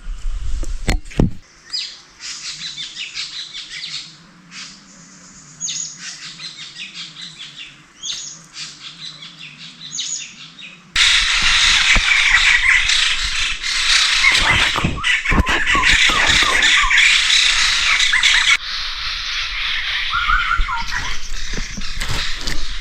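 Birds squawking and chirping in short, repeated calls; about eleven seconds in, the calling suddenly becomes much louder and denser, easing off again about eighteen seconds in.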